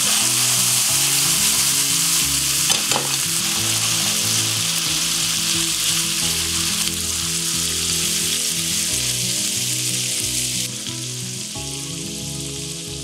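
Chicken livers and hearts sizzling hard as they sauté in a frying pan with oil and sherry, with a light knock about three seconds in. The sizzle eases a little near the end.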